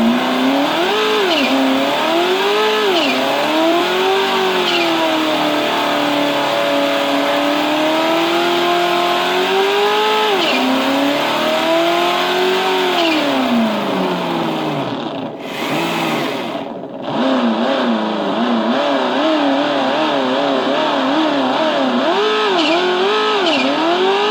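Sense Innovations ESS ONE PLUS sound module playing a simulated turbocharged car engine through its speaker, revving up and dropping back over and over as it goes through the gears, with a turbo screech. About two thirds of the way through it briefly falls back low before revving up again.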